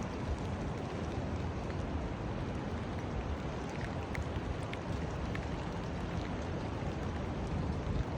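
Steady rain, with scattered individual drops ticking close by and a low rumble underneath.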